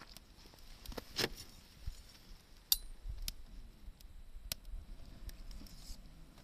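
Wood fire crackling: scattered sharp snaps and pops, with a brief hiss about a second in and a loud crisp pop just under three seconds in.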